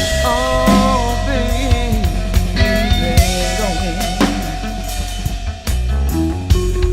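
Instrumental rock passage: drum kit with electric lead guitar bending notes over sustained chords and bass.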